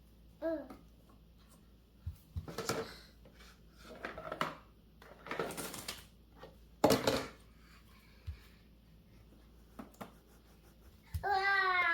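Toddler handling animal fridge magnets against a refrigerator, giving a few short irregular clacks and rattles. There is a brief toddler vocalization about half a second in and a louder, wavering one near the end.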